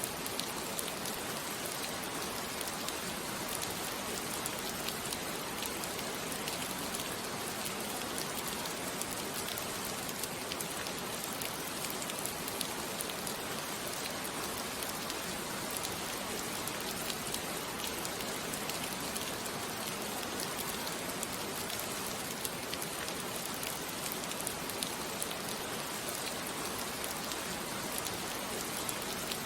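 Steady rain falling, an even hiss with the patter of drops.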